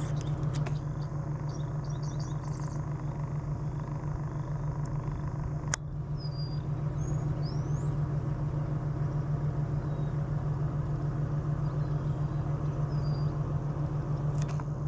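Car engine running steadily with a low, even hum. A sharp click comes about six seconds in, and a few faint bird chirps follow.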